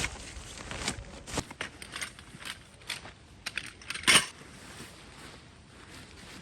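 Camping gear being handled while a tipi is set up: irregular crunches and light clinks, with one louder knock about four seconds in.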